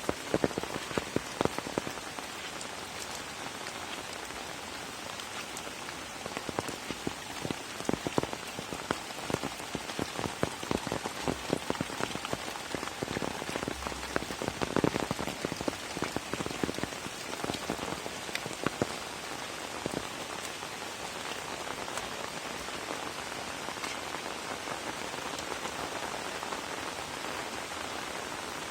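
Steady rain falling, an even hiss with many sharp splats of single drops close by. The splats are thickest in spells through the first two thirds, then settle into a smoother, steadier patter.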